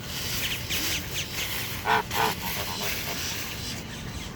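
Waterfowl giving two short, nasal, honking calls in quick succession about two seconds in.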